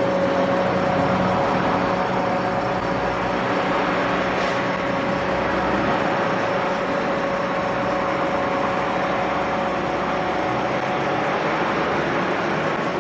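Car on the move with steady running noise and a constant droning hum carrying a held tone: the abnormal noise from a worn drive axle shaft. One of the most frequent causes of such noise is a damaged outer CV joint.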